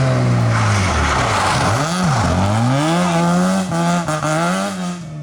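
Rally car engine dropping in revs as it brakes into a corner, tyres skidding as it slides through, then revving up again with quick gear changes as it accelerates away.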